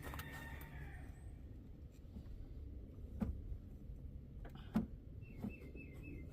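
A few light, sharp clicks of hand tools and metal parts as the fan's 10 mm nuts on a Nissan KA24E engine are worked loose by hand, over a low steady rumble. A bird chirps a few quick notes near the end.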